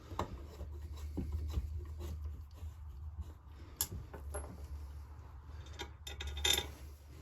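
Scattered light metal clicks, taps and rubbing as case bolts are dropped in and threaded into the crankcase halves of a Husqvarna 346XP chainsaw, over a steady low hum.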